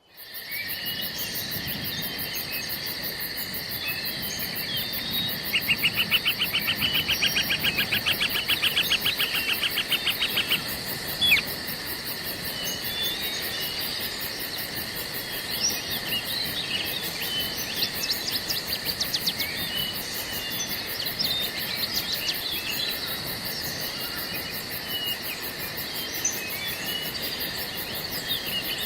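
Crickets or other insects chirring steadily in several high, unbroken pitches, with birds chirping and calling over them. A fast, even trill rises above the chorus for about five seconds near the start.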